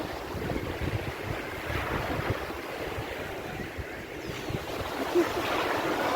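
Sea waves washing and breaking onto a beach in a steady surf wash, with wind rumbling on the microphone.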